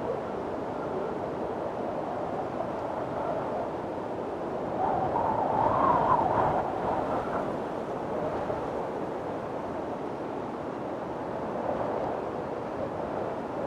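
Strong wind blowing in a windstorm, a steady rushing with a louder, higher-pitched gust swelling and easing about five to seven seconds in.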